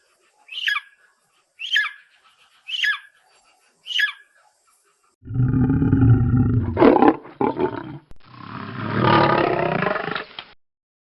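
A cat meowing five times, about once a second, each a short falling call. Then, about five seconds in, a big cat roars in two long bouts.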